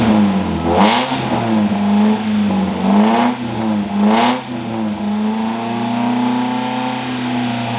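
Freshly rebuilt Mazda Miata inline-four engine blipped up three times, then settling to a steady, slightly raised running speed about five seconds in, during its first start-up before break-in.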